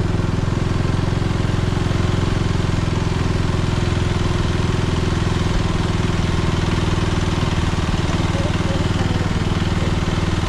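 KTM motorcycle engine running steadily at a constant pitch, with no revving.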